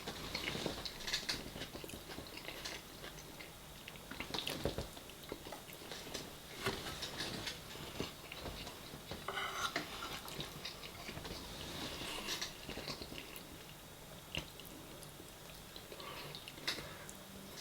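A person chewing and biting food close to the microphone: irregular wet mouth clicks and smacks, with no rhythm to them.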